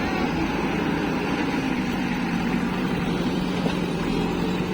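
Heavy diesel engine running steadily, its pitch rising slightly about one and a half seconds in and then holding.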